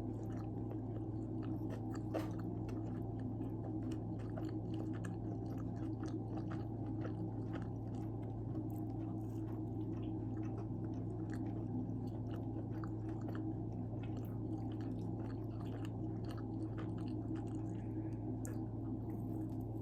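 A person chewing pizza close to the microphone, with many small wet mouth clicks throughout, over a steady low hum.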